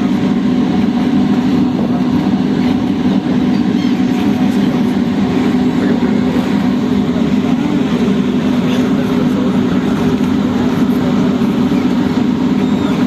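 A ferry's engine running with a steady low drone that does not change.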